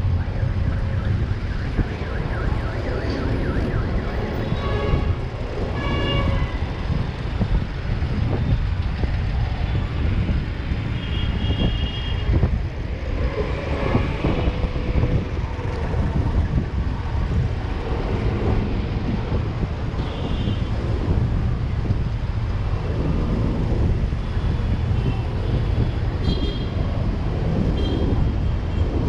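City street traffic heard from a moving bicycle: a steady low rumble of engines and road noise, with a few short high-pitched tones now and then.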